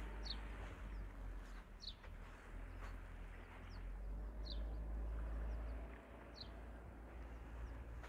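A small bird calling: about five short, high chirps, each falling in pitch, spaced a second or two apart, over a low steady rumble.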